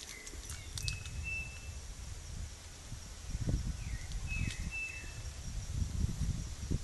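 A bird calling twice, each call a short falling note followed by a clear, high held whistle, over an irregular low rumble on the microphone from wind or handling.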